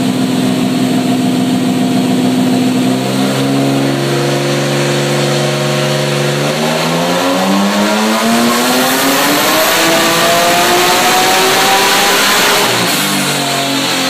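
Nissan RB26 twin-turbo straight-six on a dyno making a power pull. It holds a steady speed, steps up once, then climbs smoothly in pitch for about six seconds to high revs before the throttle is closed near the end and the revs drop back.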